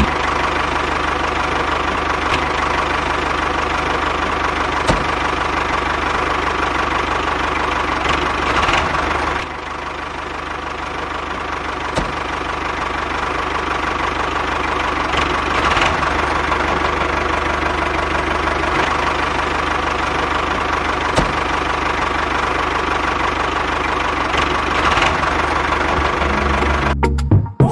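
Small engine of a DIY miniature tractor running steadily. It drops in level about nine seconds in, then builds back up, with a few faint ticks along the way.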